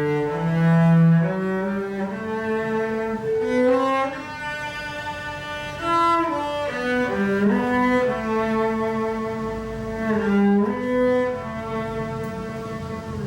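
Cello playing a slow melody of long held notes, with a lower line moving beneath it.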